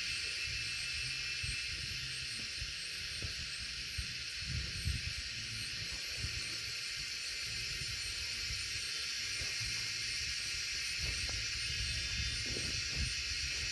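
Wind gusting over the microphone as an uneven low rumble, strongest about four to five seconds in, over a constant high-pitched hiss.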